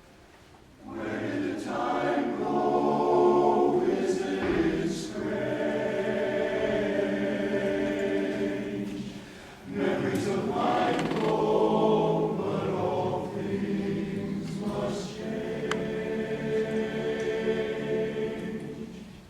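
A choir singing in harmony: two long sung phrases with a brief break about halfway through.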